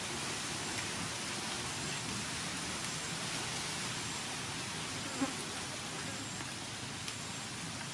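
Beef and leafy greens sizzling steadily in a wok, with one light tick about five seconds in.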